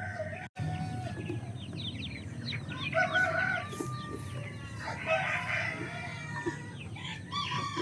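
Chickens calling: clucks and crowing from fowl, with many short high peeps throughout. The sound drops out for an instant about half a second in.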